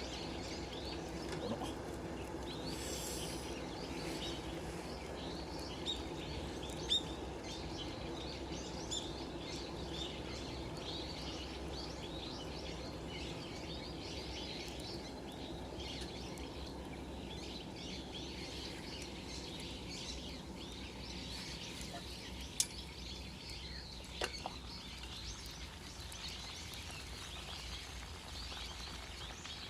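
Small birds chirping on and off over a steady low background noise, with a few sharp isolated clicks.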